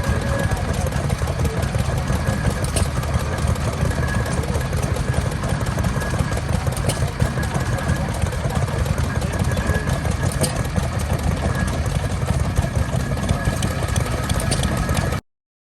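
An engine running steadily with a low rumble, cut off abruptly near the end.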